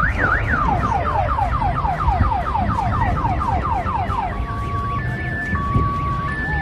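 Emergency vehicle siren sweeping quickly downward, about three to four sweeps a second, switching about four seconds in to a two-tone hi-lo pattern, over a steady low rumble.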